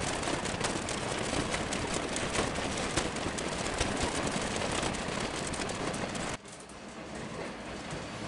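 Train running on the rails: steady wheel and rail noise with irregular sharp clicks. About six seconds in the sound drops abruptly to a quieter rumble.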